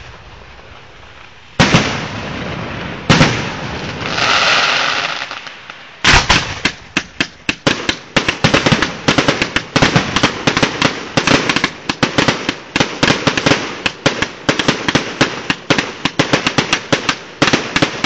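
Fireworks going off. There are two separate sharp bangs, then a crackling hiss about four seconds in. From about six seconds in comes a rapid, continuous barrage of bangs and crackles, several a second.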